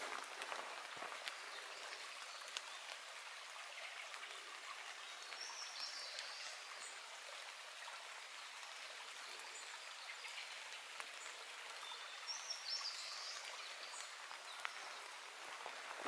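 A small songbird singing a short high phrase twice, about seven seconds apart, over a steady even hiss of forest ambience.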